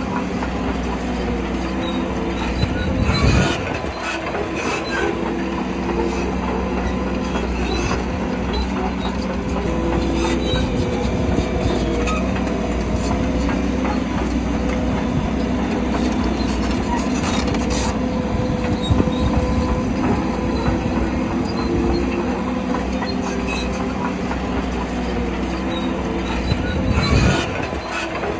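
Shantui crawler bulldozer's diesel engine running, its pitch shifting as it works, with the steel tracks clanking. The clanks are loudest about three seconds in and near the end.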